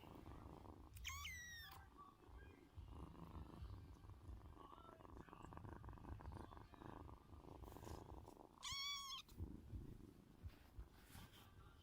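Kitten purring steadily and quietly, with two short high-pitched mews: one about a second in that falls in pitch, and another later on.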